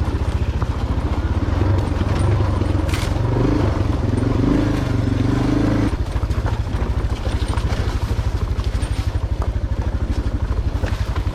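Motorcycle engine chugging at low revs over rough dirt trail. The revs rise and waver for a few seconds mid-way, then settle back to an even pulsing chug, with a sharp knock about three seconds in.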